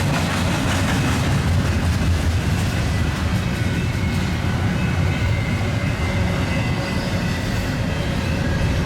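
Union Pacific double-stack container train rolling past: a steady rumble of the cars' wheels on the rails.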